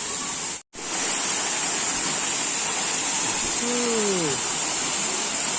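Waterfall rushing as a steady hiss of falling water, cut off for an instant under a second in. About four seconds in, a voice calls out once, falling in pitch.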